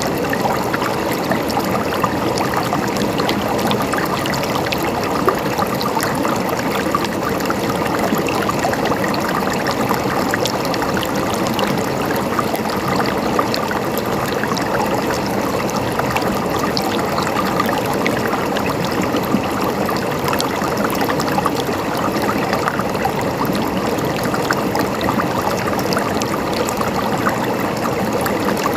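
A river flowing steadily over stones, with a constant rush of water and many small splashes and trickles.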